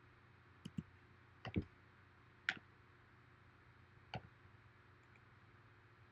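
Computer mouse clicking: about six quiet, sharp clicks in the first two-thirds, some in quick pairs, over a faint steady low hum.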